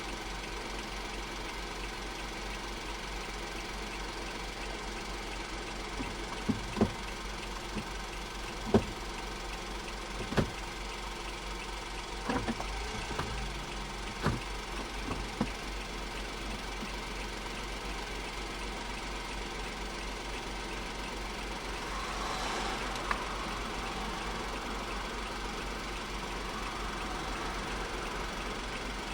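Honda S660's small turbocharged three-cylinder engine idling steadily. A scattering of sharp clicks and knocks comes through in the middle, and a soft hiss swells briefly later on.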